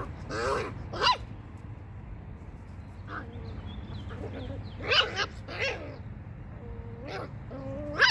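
Puppies barking and yipping in rough play: short barks about a second in and again around five seconds, and a drawn-out whine that breaks into a bark near the end.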